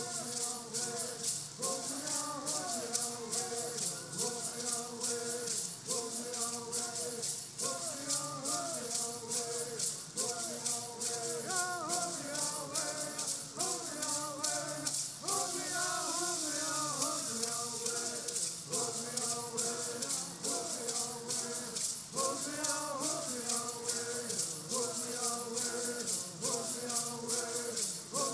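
Southern California bird song: voices singing together, accompanied by gourd rattles shaken in a fast, steady beat.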